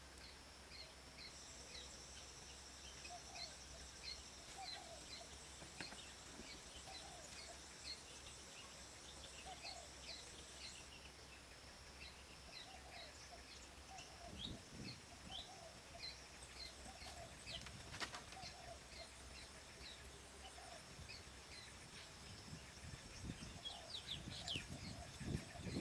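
Small birds chirping over and over in faint outdoor ambience, over a steady high-pitched hum. There is a sharp click in the middle and a few low knocks near the end.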